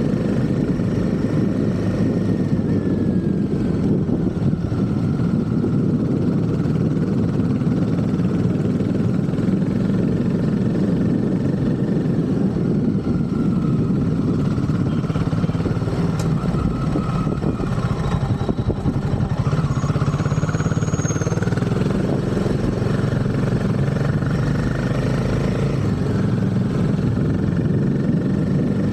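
Royal Enfield Himalayan 450's single-cylinder engine running steadily, its pitch easing down a few seconds in and climbing back up near the end.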